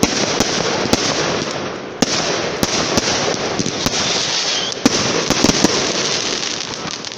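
Fireworks going off: a dense crackling hiss broken by sharp bangs, roughly one every half second, dying away near the end.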